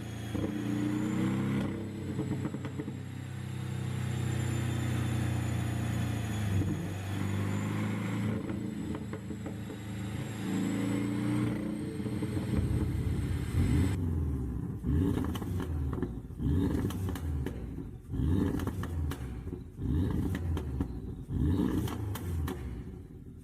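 Porsche 718 Boxster GTS turbocharged flat-four with a pop-and-crackle exhaust tune, running steadily at first. From about halfway it is revved repeatedly, with exhaust pops and crackles as the revs fall after each blip.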